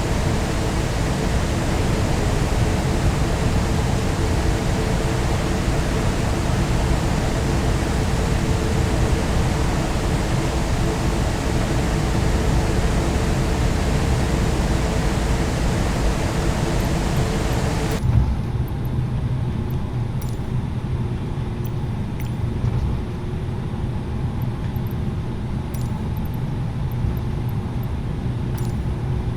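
Airbus A330-900neo cabin noise while taxiing: a steady rush of engine and air-conditioning noise with a low hum. About two-thirds of the way in, the hiss drops off suddenly, leaving a lower rumble with a few faint clicks.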